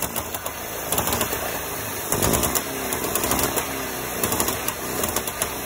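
Trabant 601's air-cooled two-stroke twin-cylinder engine running at idle with fast, sharp ticking. The exhaust primary is leaking: it was under-torqued and its seal is flapping loose.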